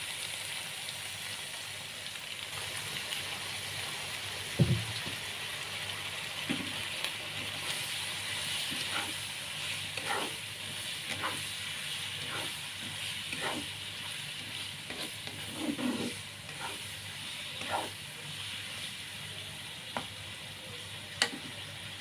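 Cauliflower and mushrooms sizzling in a pan in oyster sauce with a little water added, a steady frying hiss. A spatula knocks and scrapes against the pan as it is stirred: one loud knock about five seconds in, strokes roughly once a second through the middle, and a sharp click near the end.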